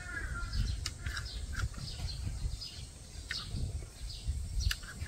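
Small birds chirping on and off, with a few short clicks and a steady low rumble underneath.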